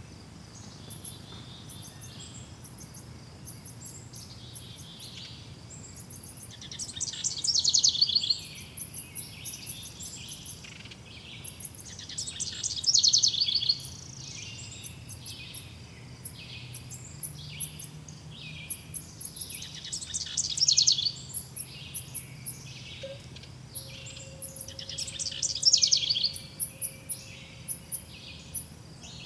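Forest birdsong: one bird repeats a loud, rapid trilled song that falls in pitch, about every six seconds, while other birds give shorter chirps in between and thin high chirps run steadily behind.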